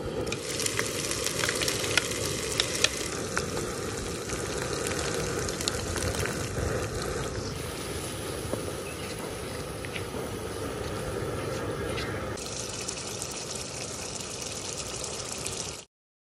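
Ginger-garlic paste and then a spiced yogurt masala frying in hot oil in a wok: a steady sizzle with sharp spattering pops in the first few seconds. The sizzle changes in tone twice and cuts off abruptly near the end.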